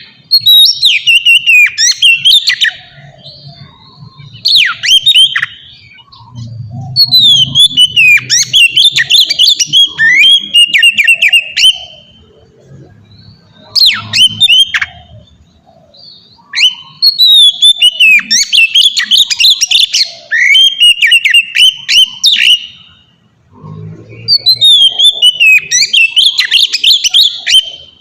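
Oriental magpie-robin (kacer) singing loud, open 'ngeplong' song: rapid, varied whistled phrases with fast sweeping notes and trills, in bursts of a few seconds separated by short pauses.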